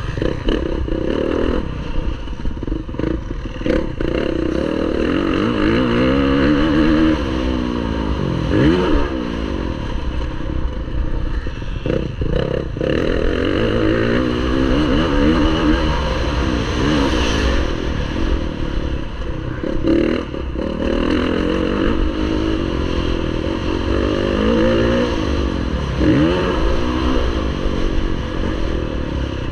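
Motocross bike engine under race throttle. Its note climbs and falls over and over as the rider accelerates and backs off, with a few brief sharp cuts.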